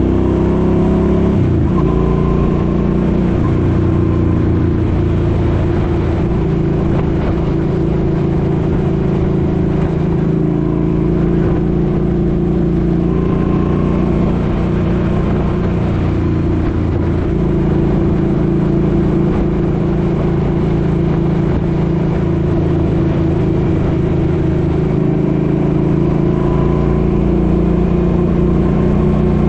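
Suzuki Boulevard M50's V-twin engine pulling at road speed, its note mostly steady and rising in pitch briefly near the start and again near the end. Wind rushes over the microphone throughout.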